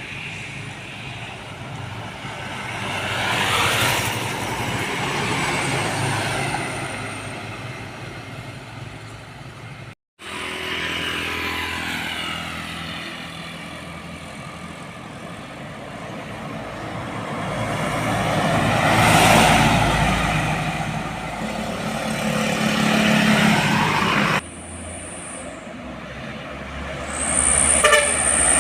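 Trucks driving past on a road, engine and tyre noise swelling and fading as each goes by, with the engine pitch falling as it passes. The loudest pass-bys come about four seconds in and again about two-thirds of the way through.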